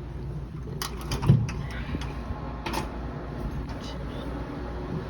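A steady low hum of machinery aboard ship, with a few sharp knocks and clatters; the loudest is a single thump about a second and a half in.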